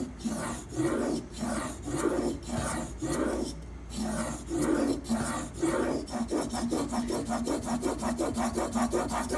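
Steel kitchen knife blade, held in a clamp guide, being ground back and forth on a sharpening stone: a rasping stroke about every half second, turning to short, quick strokes, several a second, about six seconds in.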